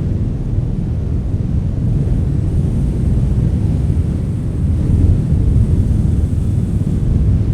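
Strong wind blowing, a deep steady rumble that swells a little about five seconds in.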